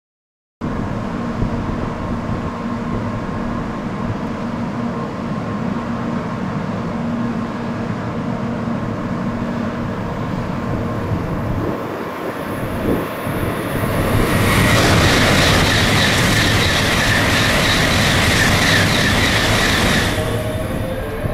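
Steady hum of an N700-series Shinkansen train standing at a station platform, with wind rushing on the microphone. About fourteen seconds in, a louder, hissing, ringing sound rises and holds for some six seconds, then cuts off suddenly.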